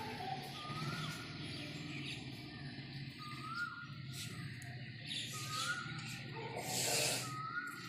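A bird repeating one short whistled call, rising then falling, about every two seconds, over a low steady hum that fades out near the end. A brief louder burst of noise comes about seven seconds in.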